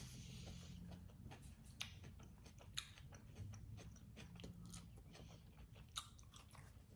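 Faint close-up chewing of a chicken lettuce wrap, with a few sharp little mouth clicks and smacks.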